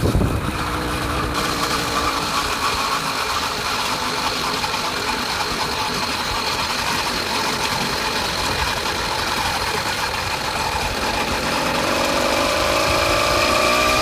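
Small engine of a home-built motorized bicycle running steadily, its pitch starting to rise near the end as it speeds up.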